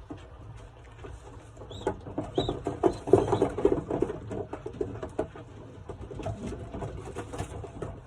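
Young racing pigeons in a loft fluttering and cooing, with a busy burst of wing flapping about two seconds in that is loudest near the middle.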